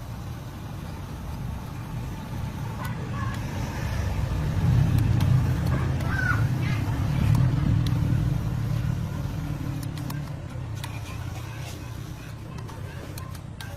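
Low engine rumble that builds to its loudest around the middle and then fades away, with a few faint clicks near the end.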